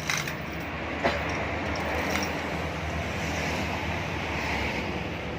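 Freshly overhauled Isuzu Panther 2.5 diesel engine, with new main and connecting-rod bearings, piston rings and rebored liners, idling steadily. A few sharp clicks sound over it, the loudest about a second in.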